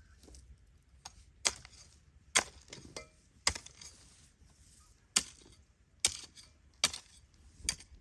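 A hand hoe chopping into soil to dig a planting furrow: seven sharp strikes, roughly one a second.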